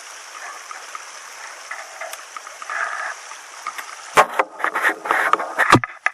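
Stream water running with a steady rushing hiss. Several sharp knocks and rustles come in the last two seconds.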